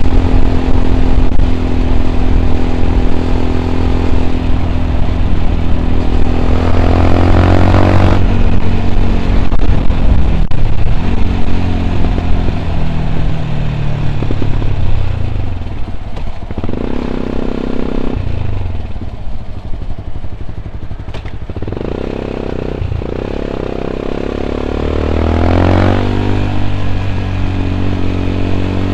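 Yamaha WR 125 X's single-cylinder four-stroke engine, fitted with an Arrow aftermarket exhaust with its dB killer in, heard while riding. The engine revs climb and then cut off sharply as the rider shifts or rolls off the throttle. The pitch then falls away as the bike slows, with a few short blips of throttle, and the revs climb again near the end.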